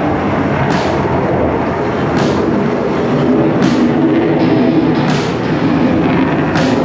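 Lockheed Martin F-22 Raptor fighter jet flying the air show, its twin turbofan engines making a loud, steady roar. A regular sharp beat comes through about every one and a half seconds.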